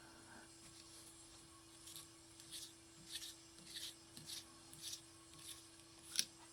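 Faint scratchy strokes of a hand-turned Helicoil installation tool threading a coil insert into a tapped engine-mount hole, about one and a half strokes a second from about two seconds in, over a low steady hum.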